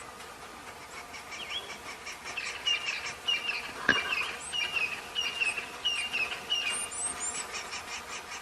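A bird calling: a short chirp repeated about twice a second for several seconds, with a few higher notes near the end. There is one sharp click about four seconds in.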